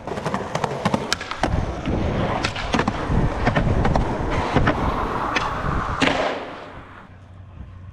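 Skateboard wheels rolling on concrete, with a run of sharp clacks and knocks from the board. The rolling stops about six seconds in.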